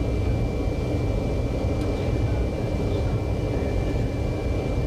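Shinkansen train running at speed, heard from the driver's cab: a steady low rumble with a thin, steady high tone over it.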